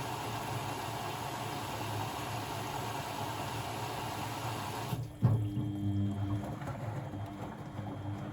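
Blomberg WAF 7442 SL washing machine with water rushing steadily through it. About five seconds in, the rush stops abruptly with a single clunk, leaving a quieter low hum.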